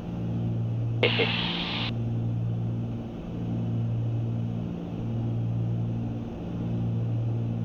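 Cabin drone of a Cessna 310's twin piston engines and propellers in cruise, pulsing slowly about every second and a half as the two engines beat against each other. A brief hiss comes in about a second in.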